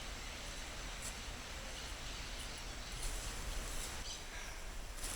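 Quiet steady background hiss with a low hum, with a few faint high-pitched chirps or ticks about a second in, around three seconds in and near the end.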